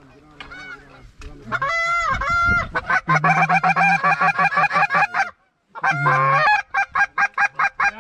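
Goose honking: loud, rapid honks and clucks in quick succession, with a brief break about five and a half seconds in.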